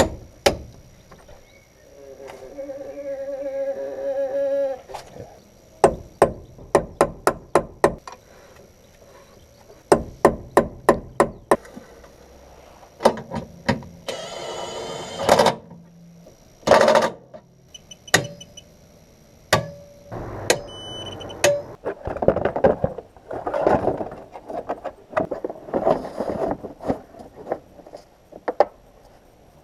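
Repeated hammer blows in quick runs of about four strikes a second, with pauses between the runs. A steady hum lasts a few seconds near the start, and brief rattling bursts come about halfway through.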